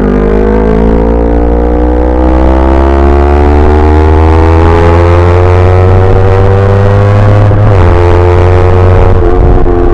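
Yamaha YZF-R25's parallel-twin engine pulling under acceleration, its pitch climbing steadily, then dipping briefly with an upshift about three-quarters of the way through before climbing again.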